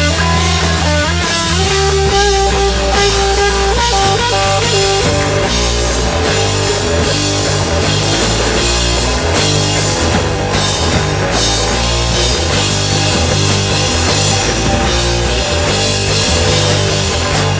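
Live rock band playing: electric guitar with bass and drum kit.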